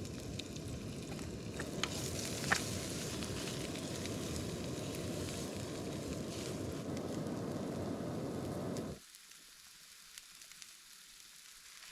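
Cooked sweet potato chunks frying in olive oil in a pan, sizzling steadily. The sound cuts off abruptly about nine seconds in.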